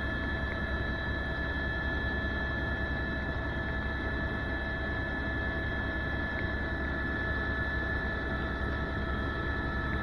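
Helicopter engine and rotor noise heard from inside the cabin in steady flight, a constant rumble with a steady high whine over it.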